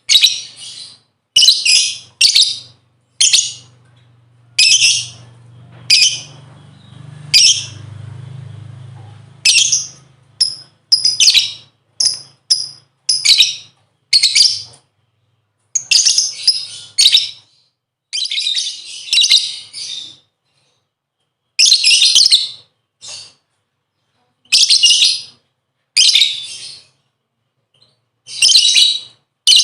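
Lovebird giving shrill, high chattering calls in short bursts roughly every second, a few drawn out to about a second: a lure call meant to set other lovebirds singing. A faint low hum sits under the first few seconds.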